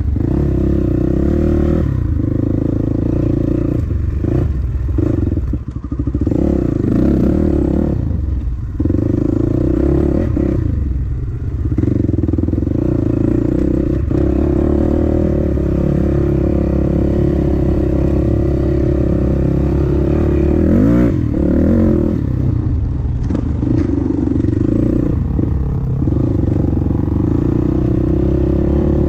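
Dirt bike engine running hard close to the microphone while riding, its revs rising and falling as the throttle is worked, with a few short dips where the throttle is shut off, and rattling from the bike over rough ground.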